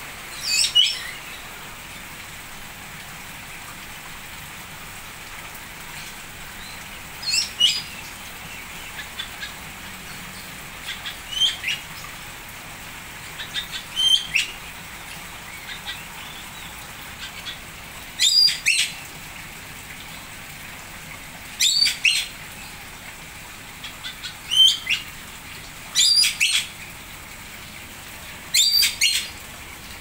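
A small bird chirping: short clusters of quick high notes repeated every few seconds, over a steady hiss.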